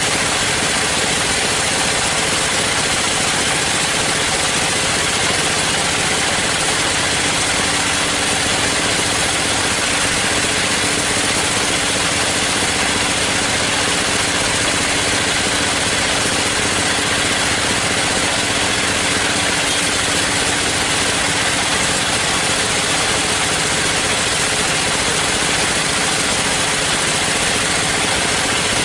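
Sawmill machinery running steadily, an even engine-like drone that holds one level throughout.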